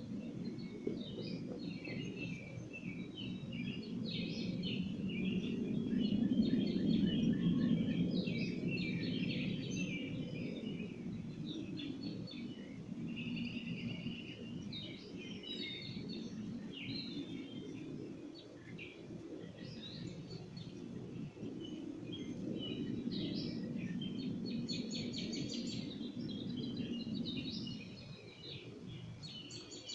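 Many small birds chirping and twittering, over a low background rumble that swells and fades twice.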